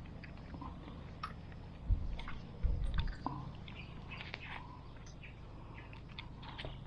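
Small birds chirping in short, scattered calls over a steady outdoor background. Low thuds come about two seconds in and again around three seconds in, and these are the loudest sounds.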